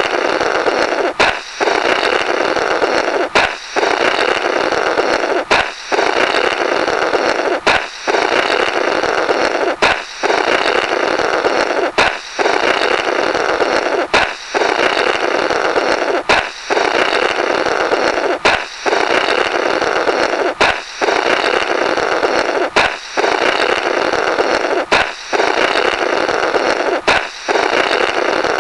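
Comic 'blorrrt' balloon-break sound effect on a loop: a balloon pop, then a raspy, flapping blowing noise through the burst rubber. It repeats about every two seconds, each pass cut off by a short break.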